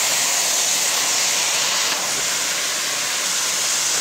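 Chicken and stir-fry vegetables sizzling steadily in butter ghee in a wok, an even hiss as the vegetables give off their water.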